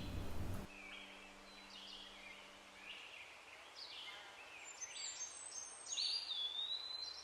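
Faint birdsong: a string of short chirping phrases, with a whistle that rises and then holds steady near the end.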